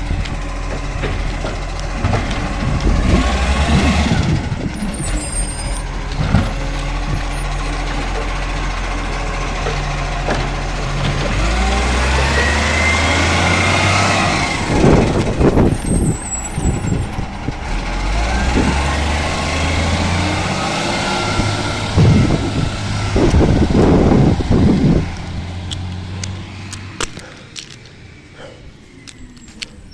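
Garbage truck's diesel engine running, revving up twice, about halfway through and again a few seconds later, while it collects green waste. Loud clattering knocks come in between, and air brakes hiss. The sound dies down near the end.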